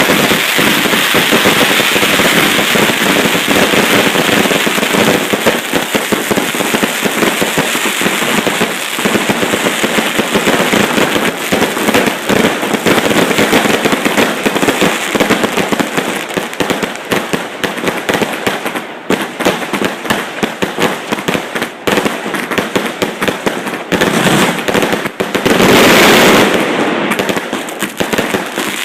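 Fireworks at close range firing as a continuous rapid barrage: a dense crackle of launches and bursts with no pause, swelling loudest near the end.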